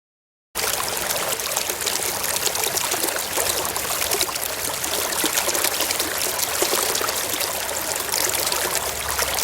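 Running water, a steady rushing like a stream, cutting in abruptly about half a second in after a brief silence.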